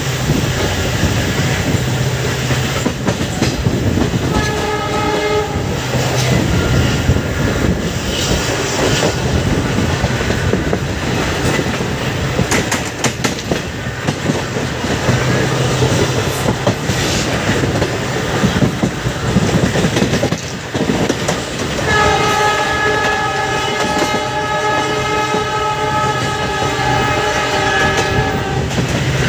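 Passenger train running at speed, heard from an open coach door: wheels clacking over rail joints under a steady rush of wind and rolling noise. The locomotive's horn sounds briefly about four seconds in, then gives one long steady blast of about six seconds near the end.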